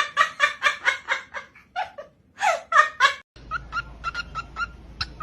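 A pet parrot laughing, a rapid run of about five ha-like pulses a second, then a few longer calls that swoop up and down. After a cut about three seconds in, a bird gives short chirps, about four a second, over a low steady hum.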